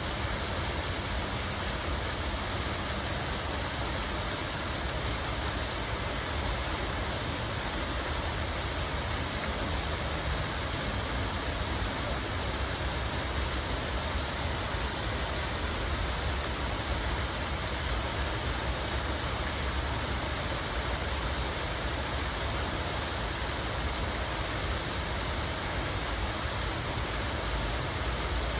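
Water running and splashing continuously in a steady, unbroken rush, with a deep steady rumble underneath.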